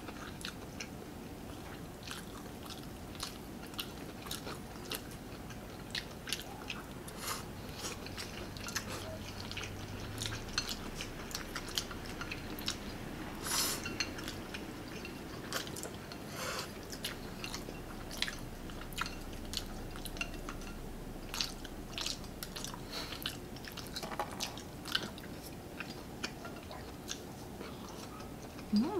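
Close-up eating sounds of two people chewing spaghetti carbonara and fried popcorn chicken, with many small sharp clicks and smacks throughout. A brief louder noisy burst comes about halfway through.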